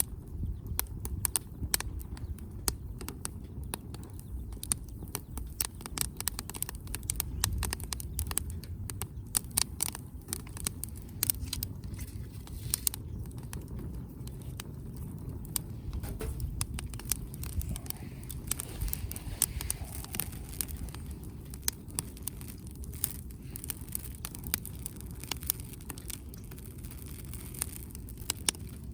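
Wood fire crackling and popping in a steel firewood grill: frequent sharp, irregular pops over a steady low rumble.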